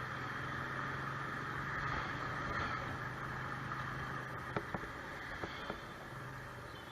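Steady vehicle running noise, engine and road or wind noise with a low hum, with a few faint ticks near the end.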